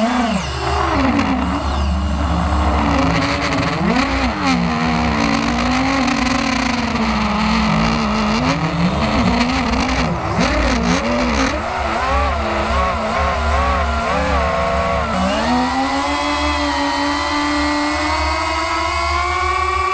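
Radio-controlled model airplane engine in flight, its pitch swinging up and down again and again as the plane manoeuvres and passes. About three quarters of the way through, the pitch rises and holds higher and steadier.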